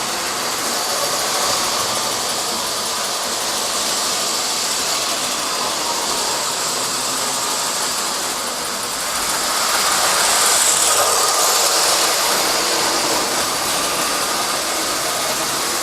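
Model steam locomotive chugging up a grade on its track, a steady running noise with hiss that gets louder about nine seconds in.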